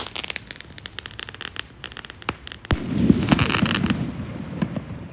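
Fireworks going off: rapid crackling, a single sharp bang about two and a half seconds in, then a louder, denser burst of crackling that dies away near the end.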